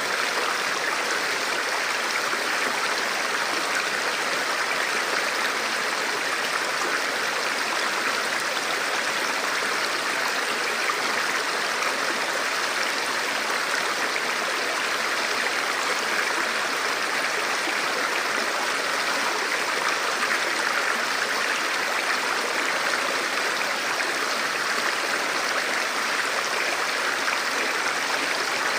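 Forest river flowing over rocks: a steady, even rushing of water.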